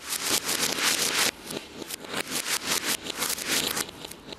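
Firework fountain crackling and popping, played in reverse: a rapid run of hissing cracks, several a second, each swelling up and then cutting off abruptly.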